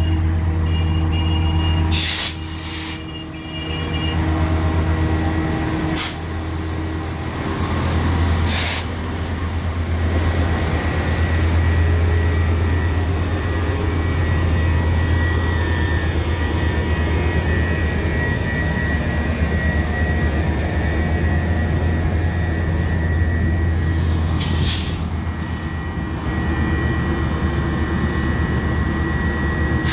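Metrolink commuter train running, with a steady low rumble and hum throughout. There are several short, sharp hisses: two a couple of seconds in, one at about six seconds, one near nine seconds, and a pair around twenty-five seconds.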